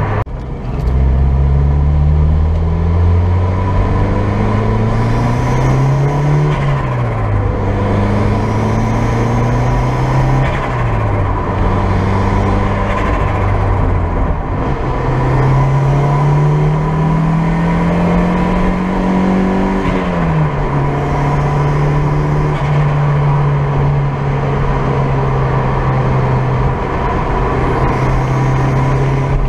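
Turbocharged Toyota 2ZZ four-cylinder engine of an MR2 Roadster, heard from inside the cabin, pulling along a road with its turbo sounds. The engine note climbs and drops several times over the first twenty seconds or so, then holds a steady pitch.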